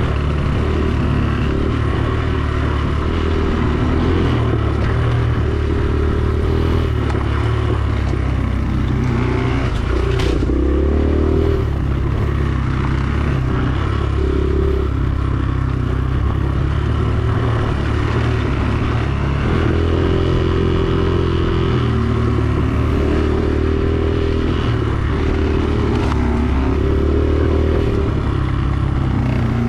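Dirt bike engine running while being ridden, its pitch rising and falling again and again as the throttle is opened and closed, with a sharp knock about ten seconds in.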